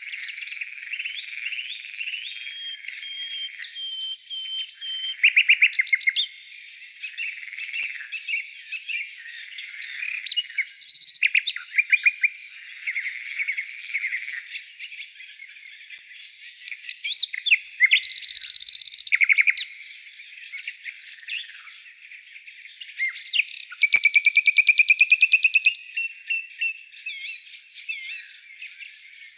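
A dense chorus of songbirds chirping, whistling and trilling, with several fast rapid-fire trills standing out, the longest a slowly rising trill about 24 seconds in.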